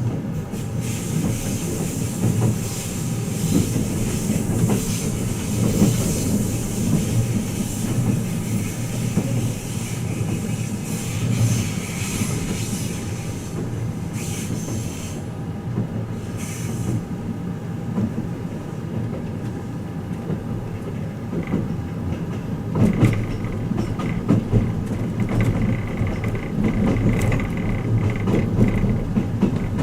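Twilight Express Mizukaze train running, heard inside the passenger cabin: a steady rumble of wheels on rail with a hiss over the top through the first half. About two-thirds of the way in a faint steady high whine joins the rumble.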